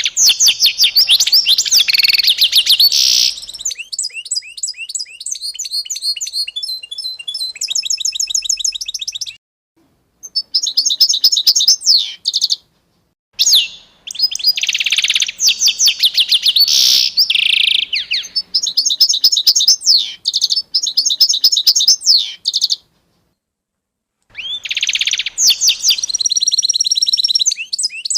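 Songbirds singing: loud phrases of rapid high trills and chirps. The song breaks off into dead silence three times, for about half a second to a second and a half each.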